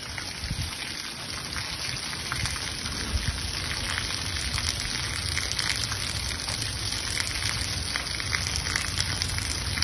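Steady rain falling on a wet cobblestone street, a dense, even hiss of many small drop impacts.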